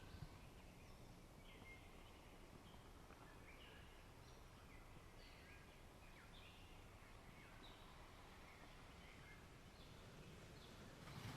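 Faint birdsong: many short, high chirps and brief trills from small birds, scattered over a low, steady background hush.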